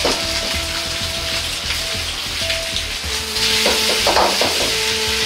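Pork belly slices sizzling in a hot wok as they sear on both sides over medium heat, a steady frying hiss that grows louder a little past halfway.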